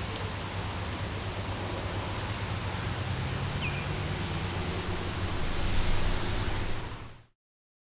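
Steady outdoor background hiss with a low hum beneath it, and one short high chirp a little past halfway; the sound cuts off abruptly shortly before the end.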